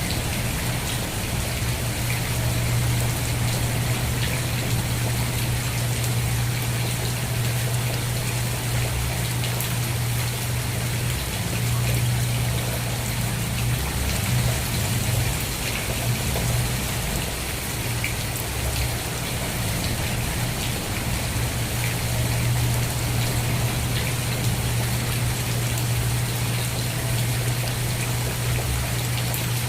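Steady rain falling, with scattered drops ticking on a surface over an even hiss, and a steady low hum underneath.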